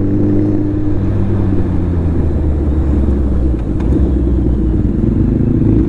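Suzuki Hayabusa's inline-four engine running steadily at speed, heard from the riding bike.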